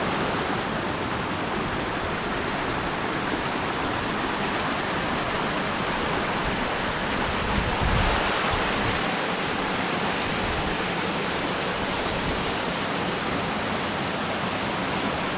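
Steady rushing of a creek's waterfall cascades in strong flow, with a brief low thump about eight seconds in.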